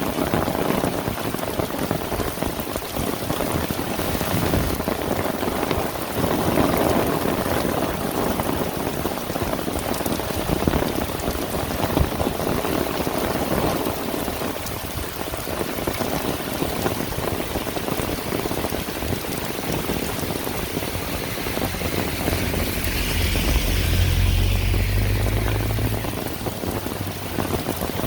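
Heavy rain falling steadily, a dense hiss of drops. About three-quarters of the way through, a low rumble swells and fades away again.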